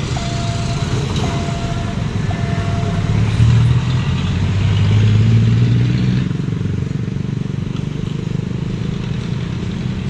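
Level-crossing warning signal beeping in pulses about once a second, stopping about three seconds in, over steady engine and traffic noise. A deeper engine drone swells louder for about three seconds in the middle, then eases back to a steady rumble.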